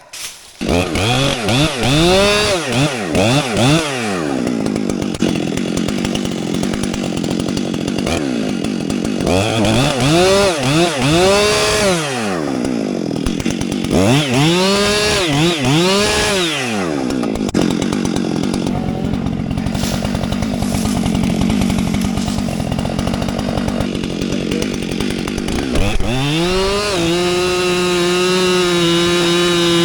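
Two-stroke chainsaw running, its throttle blipped up and down in repeated bursts with steadier running in between. Near the end it is held at a steady high rev.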